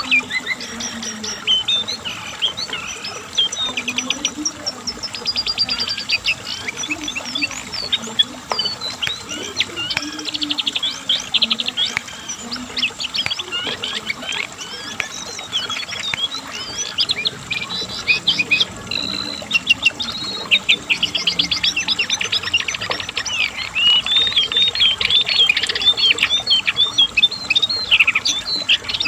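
Brown cingcoang (jongkangan coklat), a shortwing, singing a long, unbroken, varied song of fast trills, rapid chattering notes and quick high whistled sweeps.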